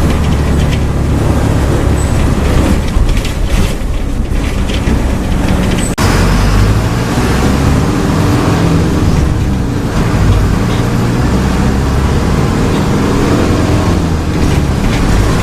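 Diesel engine of a Mercedes-Benz OF-1722M bus running at high revs, a steady loud drone. There is a sudden brief drop about six seconds in, after which the engine carries on.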